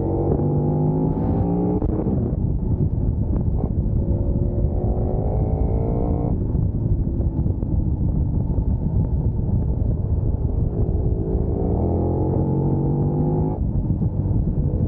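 Sport motorcycle engine accelerating through the gears, its note climbing and then dropping at upshifts about two, six and thirteen and a half seconds in, over a steady rush of wind noise.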